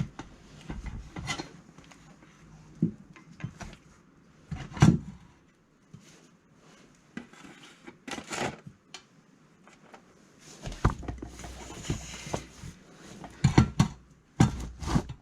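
Irregular clinks, knocks and rubbing of hard objects being handled, such as tools and metal parts being picked up and set down, with the loudest knocks near the middle and end.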